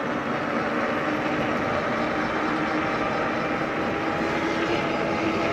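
Steady riding noise from an electric bike on the move: wind on the microphone and tyre noise, with a faint, even hum.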